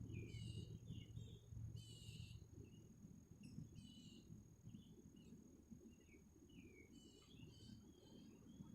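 Faint birdsong: scattered short chirps and brief trills from several birds, over a low steady rumble.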